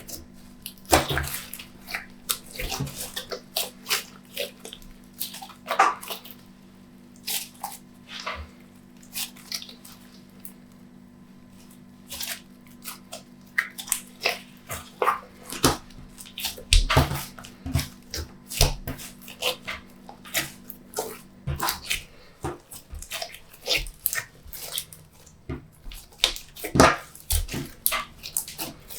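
Glossy slime being squished and stretched by hand: a string of irregular wet clicks and pops, a few a second.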